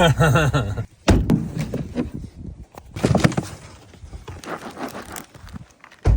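Indistinct voices talking, with scattered handling noises and a short, loud, dull thump near the end.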